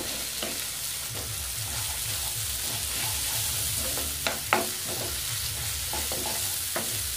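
Mashed potato and roasted eggplant sizzling in hot oil in a karahi while a wooden spatula stirs and scrapes through it, with a few sharper knocks of the spatula on the pan, loudest about four and a half seconds in.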